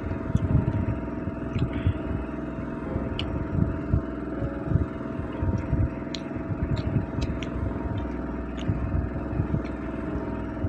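Eating by hand at close range: irregular soft thuds and small clicks of chewing and of fingers working rice and fish on a plate, over a steady background hum.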